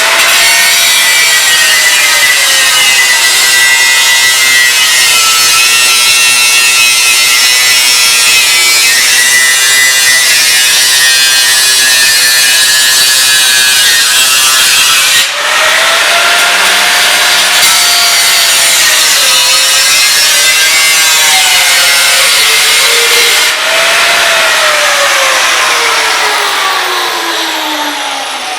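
Power saw cutting, its motor pitch wavering up and down with the load, with dense hissing noise from the cut. The sound changes abruptly twice, and near the end the motor pitch falls steadily as it winds down.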